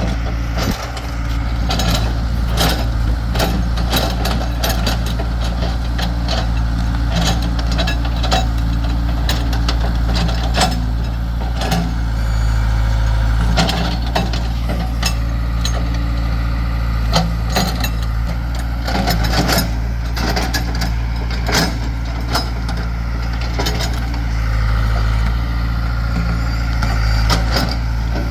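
Backhoe's diesel engine running steadily, with many sharp knocks and clanks as the machine works a tree's root ball.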